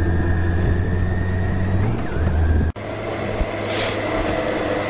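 BMW K 1600 GTL's inline-six engine running at low speed through town, heard from the rider's seat. The sound breaks off abruptly a little before three seconds in and carries on at a different, steady pitch, with a short hiss a second later.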